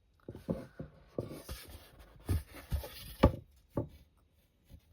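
Handling noise as a watercolour painting board is tilted about on a table: a string of irregular wooden knocks and rubbing, the loudest knock a little after three seconds in.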